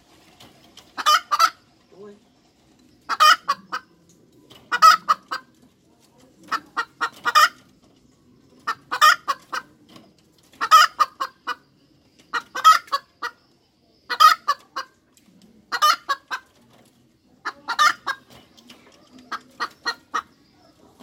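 Domestic hen cackling: about ten loud bouts of short clipped clucks, one roughly every two seconds, each a quick run of notes.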